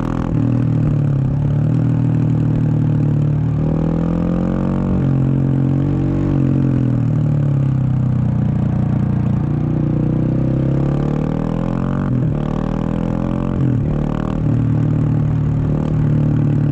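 Husqvarna 701 Supermoto's single-cylinder engine through a Wings aftermarket exhaust, running under way: the revs climb and drop repeatedly as the bike accelerates and shifts. There are two short breaks in the sound late on, where the throttle is snapped shut.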